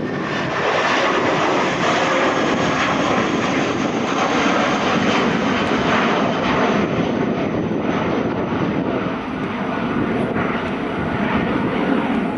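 Jet airliner engines running loud and steady at takeoff power, a dense roar with a thin high whine above it.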